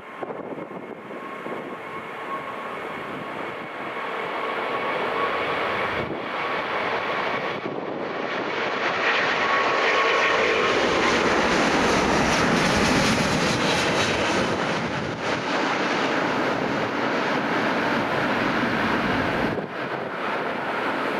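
Airliner's engines passing close by: a steady whine over a rushing roar that builds to its loudest about halfway through, then eases a little.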